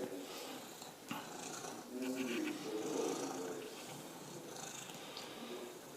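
Domestic cat purring steadily, with a short voice-like sound about two seconds in.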